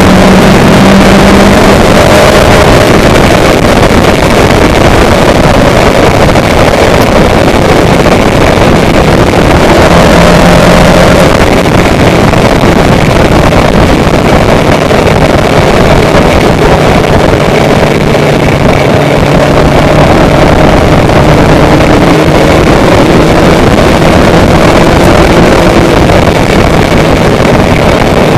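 A vehicle's engine running with steady loud travel noise, its hum shifting in pitch a few times.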